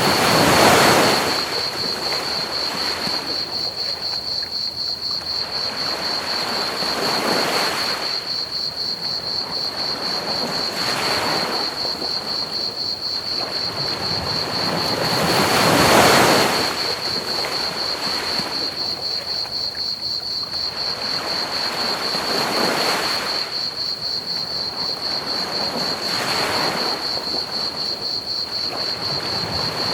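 Ocean waves breaking on a beach, swelling and washing back every four to six seconds, the biggest near the start and midway, over a steady hiss of pink noise. A cricket chorus chirps on a steady high pulsing note throughout.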